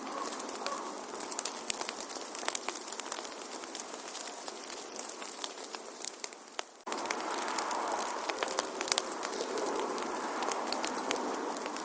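Wood fire crackling: a steady hiss with frequent sharp pops and snaps. About seven seconds in, it dips and then cuts back in abruptly.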